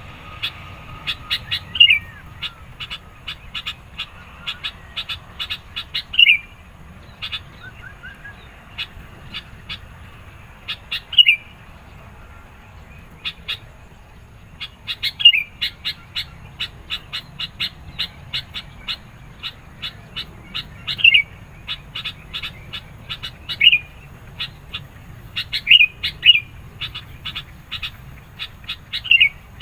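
Sooty-headed bulbul calling insistently: runs of short, sharp chirps, several a second, broken every few seconds by a louder note that slides downward. A faint low hum runs underneath.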